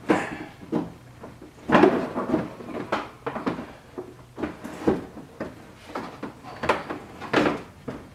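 Irregular plastic knocks and clatter as a car's front bumper cover is worked onto its plastic mounts, with several sharper bumps, the loudest about two seconds in.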